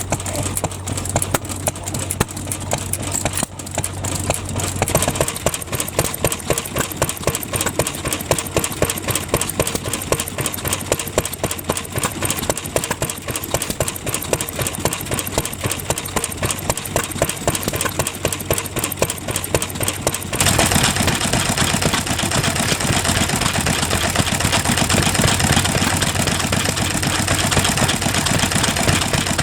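Vintage stationary engines running with a fast, regular beat of firing strokes. The sound changes abruptly about three seconds in and again about twenty seconds in, and the last part is louder.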